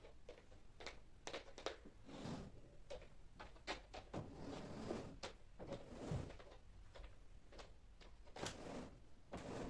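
Household handling sounds during cleaning: a scattering of light, irregular knocks and clicks of things being moved and set down, with several brief rustling or wiping swishes.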